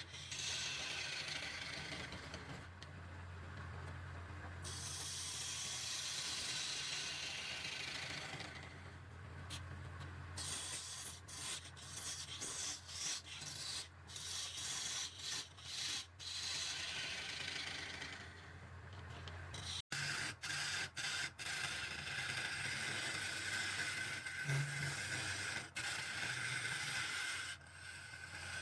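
Wood lathe running with a steady low hum while a tool cuts and rubs the spinning wood, cutting out briefly many times.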